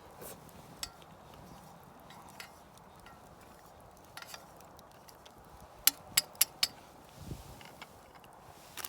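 Sharp clicks and clinks of hard camp cookware and utensils being handled, with four loud clicks in quick succession about six seconds in.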